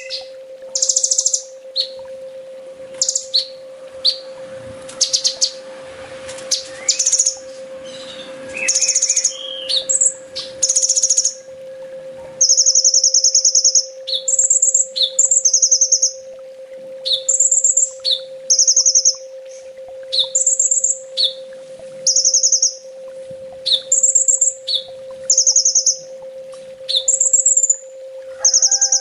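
Kolibri ninja sunbird singing: short, high, buzzy trills repeated about once a second, a more varied jumble of notes in roughly the first dozen seconds, then a regular run of alternating trills. A steady faint hum runs underneath.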